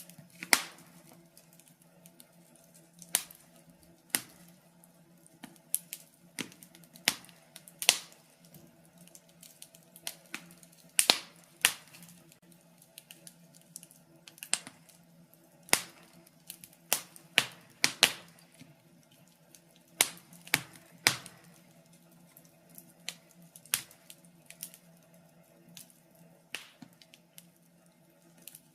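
Wood fire crackling, with irregular sharp pops and snaps, some in quick clusters, over a faint low hum.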